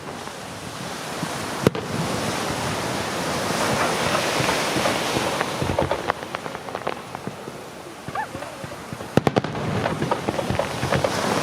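Aerial fireworks display: a dense hiss of crackling effects, a single sharp bang about two seconds in, and a quick cluster of loud bangs near the end.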